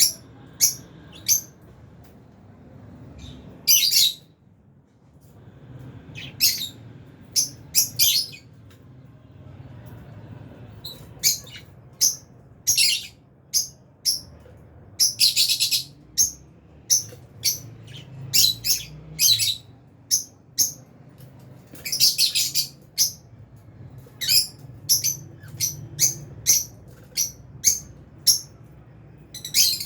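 Lovebirds chirping: many short, shrill, high-pitched chirps in irregular runs, with a few longer bursts of chatter.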